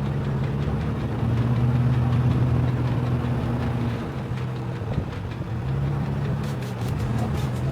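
Jeep Cherokee XJ engine running on a dirt trail, its pitch rising and falling a little with the throttle.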